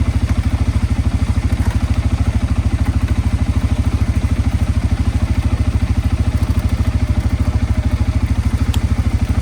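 An engine idling steadily with an even, low beat of about ten pulses a second.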